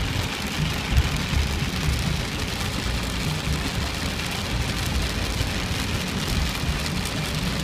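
Steady heavy rain hissing, with a low rumble underneath.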